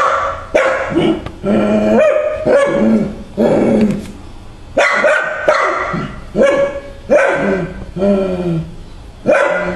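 Dog barking repeatedly in short, pitched barks, about two a second, with a brief pause around the middle.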